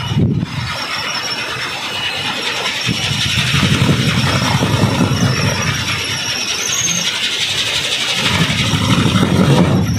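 Kolecer, a Sundanese wind-driven propeller windmill on a pole, spinning in the wind with a continuous deep droning whir that swells and fades with the gusts, loudest about four and nine seconds in.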